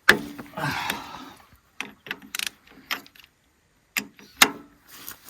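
Hand tools working on excavator metal: a string of irregular metallic clicks and knocks, with a short scraping rustle near the start, like spanners and a socket ratchet on fittings.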